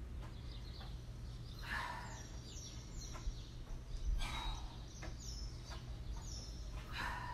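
A small bird chirping in short, high, falling notes, several in quick succession, over a steady low hum. Three soft rushing swells come about every two and a half seconds.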